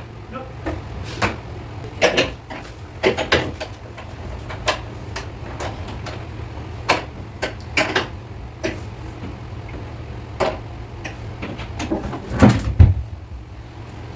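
Irregular knocks and clicks of parts and tools being handled during shower-fitting work, with a louder cluster of knocks near the end, over a steady low hum.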